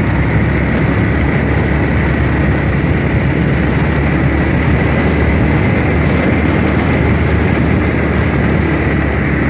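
Motorcycle riding at a steady speed, its engine and the rushing road noise making a constant loud drone with a faint steady whine above it.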